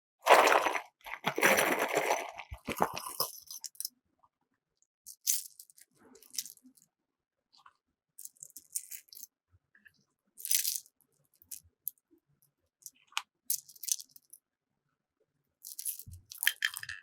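Slime being pressed and worked by hand: bursts of crunchy crackling and sharp little pops. It is densest and loudest in the first few seconds, then becomes scattered, shorter crackles and clicks.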